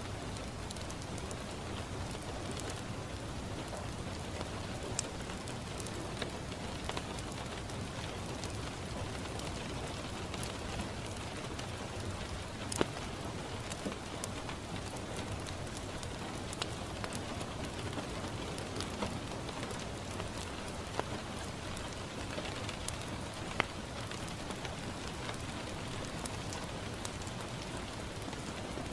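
Steady rain falling on a window, with scattered sharp pops and crackles from a wood fire; the loudest pops come about 13 and 23 seconds in.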